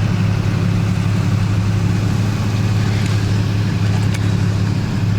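Steady low engine and road drone of a car being driven, heard from inside the cabin.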